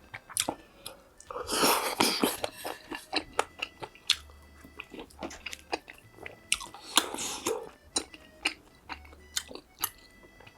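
Close-miked eating: a person chewing food with many small wet mouth clicks. Two louder, noisier stretches come about a second and a half in and again around seven seconds.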